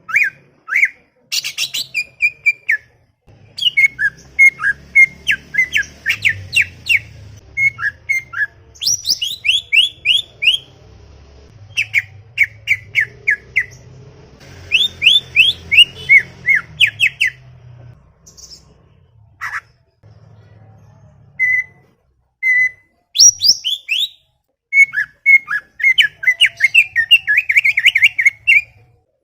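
Green leafbird (cucak ijo) singing: fast runs of sharp chirps and whistled notes, with a few seconds' pause about two-thirds of the way through.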